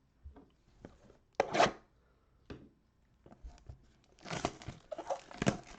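A sealed box of trading cards being opened by hand: a few handling clicks and a short tear about a second and a half in, then plastic wrapping torn and crinkled continuously from about four seconds in.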